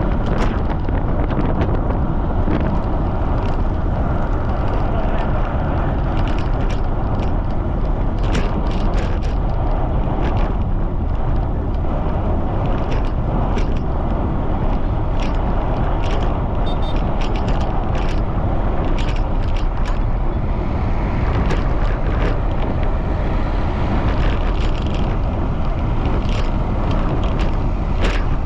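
Strong wind buffeting the microphone during a bicycle ride: a steady low rumbling rush, with scattered short sharp ticks.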